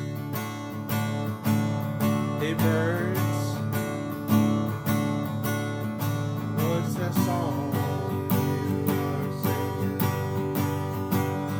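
Acoustic guitar strummed in a steady rhythm, with a short wavering melodic line over it twice.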